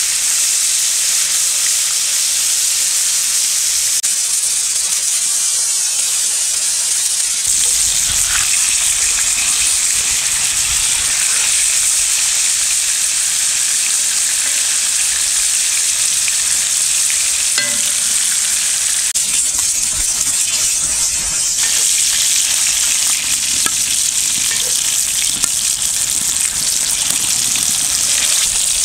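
Battered catfish fillets frying in hot oil in a cast-iron skillet: a steady, dense sizzle.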